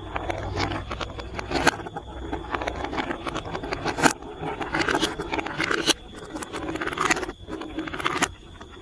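Plastic marble run toy clicking and rattling: marbles and block pieces knocking and rolling, with a sharp clack every second or two.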